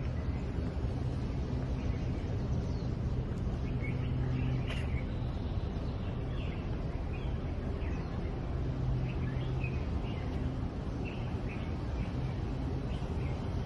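Small birds giving short chirps scattered through, over a steady low hum.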